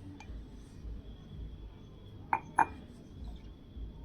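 Kitchenware clinking twice in quick succession about two and a half seconds in, over a faint low background hum.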